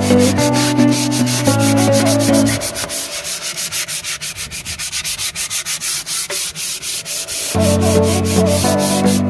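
Hand sanding: sandpaper rubbed back and forth over a surface in quick, even strokes, about four a second. Background music plays at the start, drops out for about five seconds and comes back near the end.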